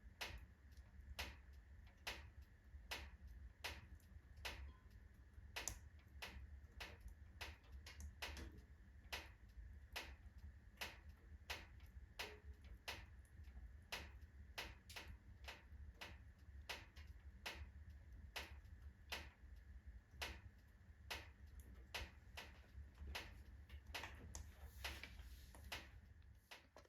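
Oak logs burning in a fireplace: irregular sharp crackles and pops, a few a second, over a low steady rumble of the fire, with a brief hiss about 24 seconds in.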